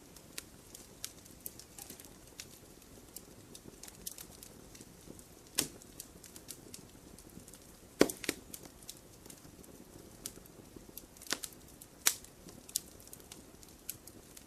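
Campfire crackling: many small sharp wood pops over a faint low hiss of burning, with a few louder snaps at about 5.5, 8, 11 and 12 seconds in.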